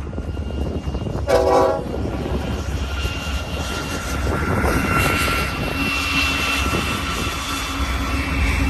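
BNSF GE Dash 9 diesel freight locomotives running past with a steady deep rumble, a thin high-pitched squeal coming and going over it. A short pitched call stands out about a second and a half in.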